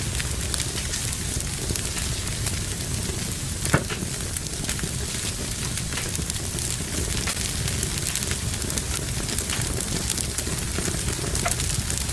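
Fire burning in a fireplace: a steady low rumble with frequent small crackles, and one louder pop nearly four seconds in.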